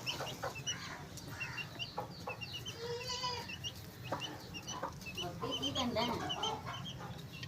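Chickens clucking, with many short high chirps throughout and voices in the background.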